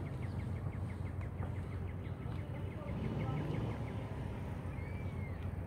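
A small songbird singing a rapid trill of short, evenly spaced notes, about eight a second, that stops after two or three seconds, with a single rising-and-falling whistle near the end, over a steady low outdoor rumble.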